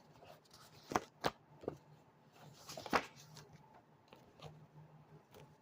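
Cards being handled: several sharp snaps about a second in and again near three seconds, with a short rustle, over a faint low hum.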